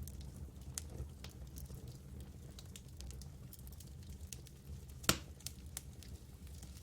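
Wood campfire crackling: irregular sharp pops and snaps over a low steady rumble, with one louder pop about five seconds in.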